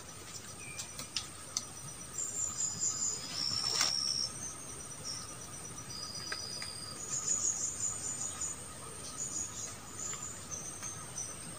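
Forest insects, crickets or cicadas, droning in steady high tones, with short high chirps and whistles coming and going over them. A few faint clicks, and one sharper click about four seconds in.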